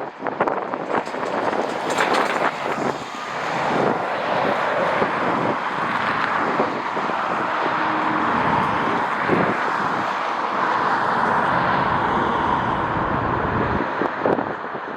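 Jet airliner engine noise, building about three seconds in and holding steady, with gusty wind buffeting the microphone.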